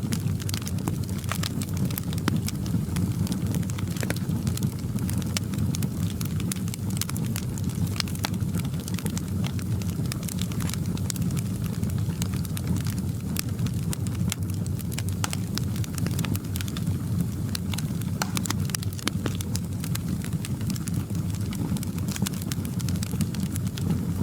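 Wood fire crackling in a fireplace: a steady low rumble with frequent small sharp pops and crackles.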